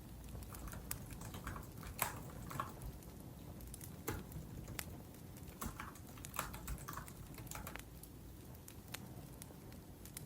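Laptop keyboard typing: irregular short bursts of soft keystrokes, over a low background of a wood fire with occasional sharp crackles.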